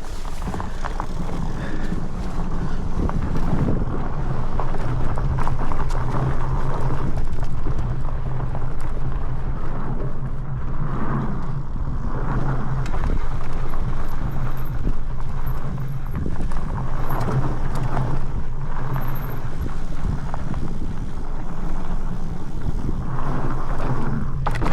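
Continuous riding noise from an electric fat bike, a Rocky Mountain Blizzard Powerplay, going down a bike park trail: wind buffeting the microphone over a steady low hum and rumble from the tyres and drive, with frequent knocks and rattles over bumps.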